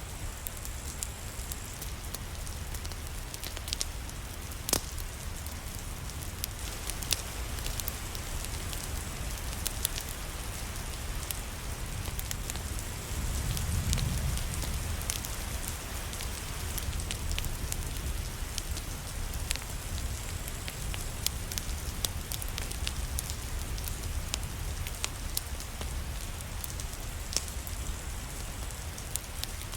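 Steady rain with a wood fire crackling: an even hiss and low rumble, with scattered sharp pops and ticks throughout. A low rumble swells briefly about halfway through.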